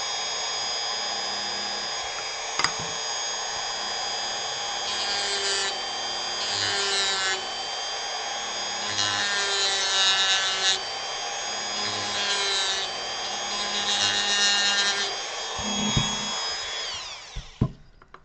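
Dremel rotary tool running at a steady high whine, its bit grinding into wood in a series of short passes, each about a second long. Near the end the motor is switched off and winds down, its pitch falling.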